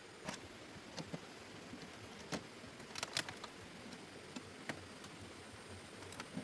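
A few light, irregular knocks and clicks over a faint steady hiss, the sharpest cluster about halfway through.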